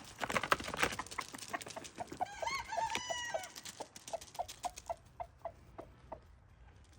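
Chickens clucking: a patter of sharp clicks in the first two seconds, a longer drawn-out call a couple of seconds in, then short clucks about three a second that fade out near the end.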